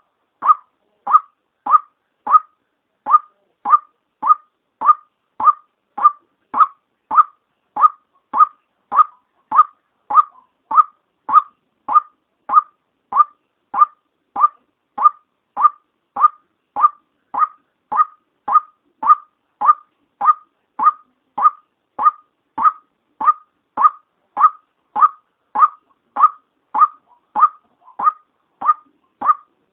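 White-breasted waterhen's call, given as the female's, repeated as a lure: one short note near 1.2 kHz, a little under two notes a second, evenly spaced and steady in level.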